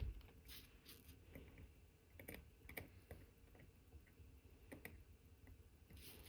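Near silence with faint, scattered clicks and taps of a watchmaker's small tools, such as tweezers and a screwdriver, on the parts of an Omega Cal.1109 watch movement being assembled. The sharpest click comes at the very start.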